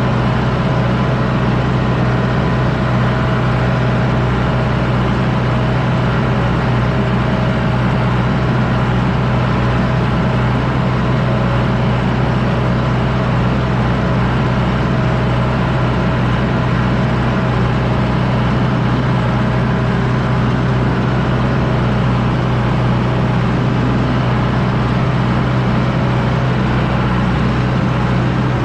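John Deere 6110D tractor's diesel engine running steadily, pulling a disc harrow through a harvested field, with an even, constant hum.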